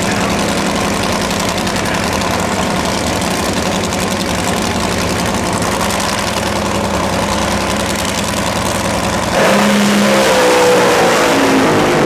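A drag racing car's engine running loud and steady at full throttle. About nine seconds in the sound jumps louder and its pitch falls away, as the car passes.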